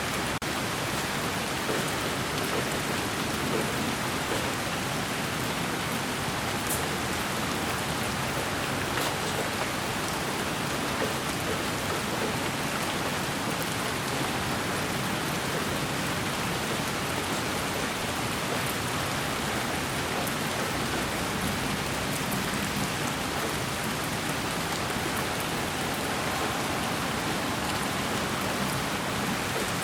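Steady, even hiss of rain falling on a surface, with a faint single drop ticking now and then.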